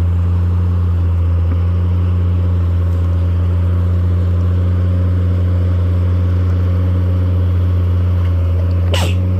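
Jeep Cherokee XJ's engine running at a steady low pitch while crawling the trail, with a brief high squeak near the end.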